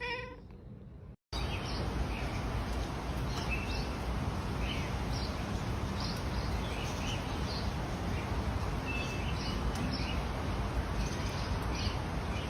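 Scattered short, high chirps of birds over a steady rushing noise, starting after a sudden cut about a second in.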